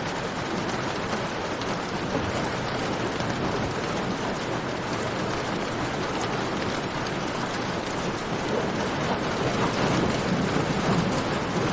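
Steady heavy rain with small scattered crackles from a campfire, getting a little louder about nine seconds in.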